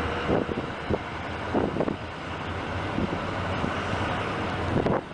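A train plowing through heavy snow: a steady rushing of snow and wind over a low, even engine hum, with a few soft irregular knocks.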